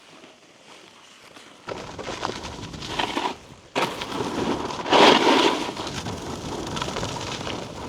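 Snowboard sliding over icy, choppy snow: the edges scrape and chatter, starting about two seconds in and loudest around the middle.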